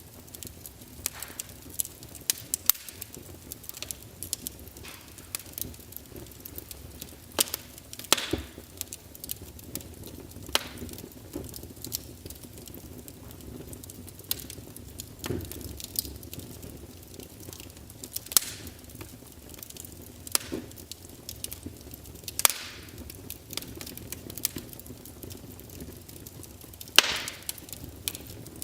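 Wood fire crackling in a fireplace: a low steady burn with irregular sharp pops and snaps, a few louder cracks standing out.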